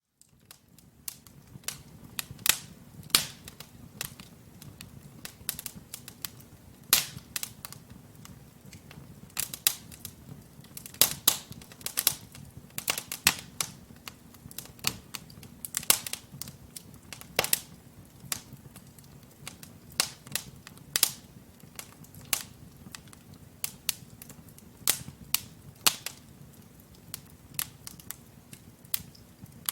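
Wood logs burning in a fireplace: irregular sharp crackles and pops, some loud and some faint, over a soft low hiss of the fire.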